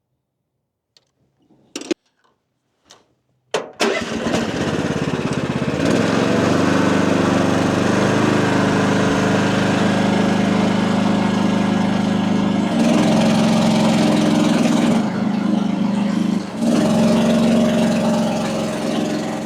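A few knocks, then the AGT WH12R mini excavator's engine starts about three and a half seconds in and runs steadily. Its note shifts twice in the later part as the hydraulics are loaded, the bucket circuit deadheaded against the relief valve at about 2,600 psi.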